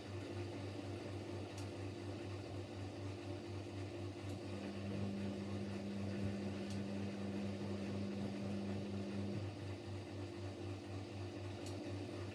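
Siemens Siwamat Plus 574 front-loading washing machine running with a steady, pulsing electric hum at the end of its softener rinse. A second, higher hum joins about four and a half seconds in and stops about five seconds later.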